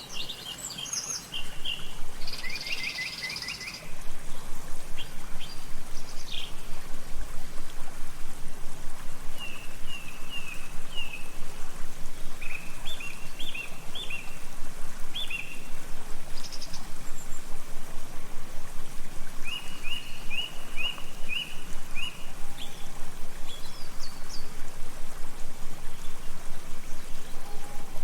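Songbirds chirping in short runs of quick repeated notes, over a steady background hiss of outdoor ambience.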